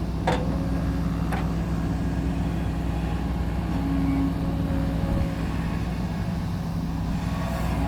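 Dump truck's diesel engine running at a steady speed, with two short clicks, one just after the start and one about a second and a half in.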